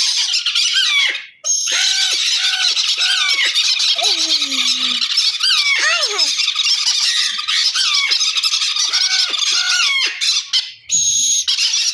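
Parrots chattering and squawking: a dense, continuous tangle of overlapping calls full of rising and falling whistles, pausing briefly twice.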